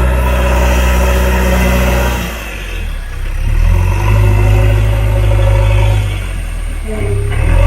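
JCB 3DX backhoe loader's diesel engine running under work load. It eases off about two seconds in, builds up again, then dips once more and picks up near the end.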